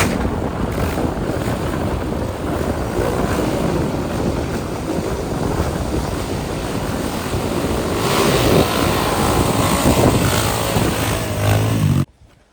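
Motorcycle running on the move, with heavy wind buffeting the microphone; it cuts off suddenly near the end.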